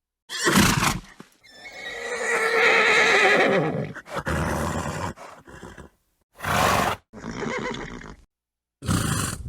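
A horse whinnying: one long wavering whinny after a short snort, followed by several short snorts.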